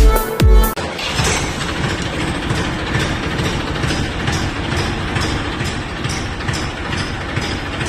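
Music cuts off less than a second in, giving way to a Massey Ferguson 241 tractor's three-cylinder diesel engine running steadily.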